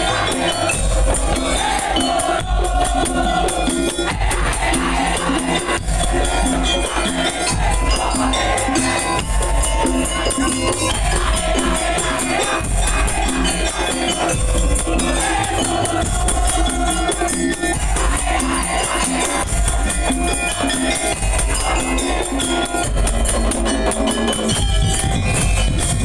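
Madurese daul music played loud: a percussion band of drums and jingling percussion with a heavy, steady beat under a repeating melodic line.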